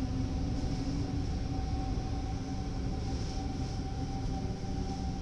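NS DDZ double-deck electric train pulling out of a station, heard from inside at the door vestibule: steady low rumble of the running train with a constant high whine and a lower hum.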